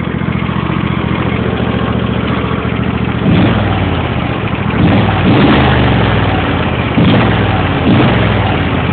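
Lawn tractor engine running with the choke pulled on, sputtering: it runs steadily at first, then from about three seconds in it stumbles and surges unevenly several times without dying.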